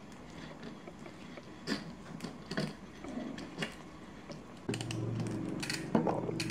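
Scattered metallic clicks and knocks as the left pedal of a folding bike is threaded into the crank arm and tightened with a tool. About two-thirds of the way in, a steady low hum starts and carries on under the clicks.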